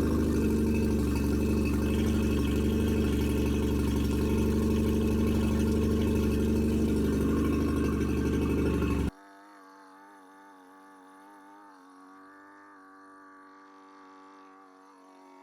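2006 Nissan 15 hp four-stroke outboard motor running steadily after its repair, then cutting off abruptly about nine seconds in, leaving a faint steady hum.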